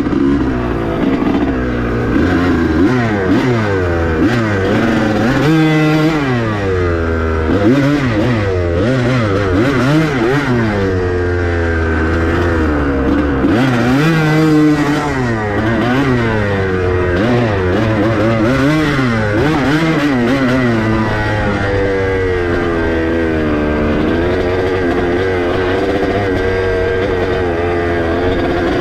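Dirt bike engine being ridden hard, its pitch rising and falling over and over as the throttle opens and closes through the gears.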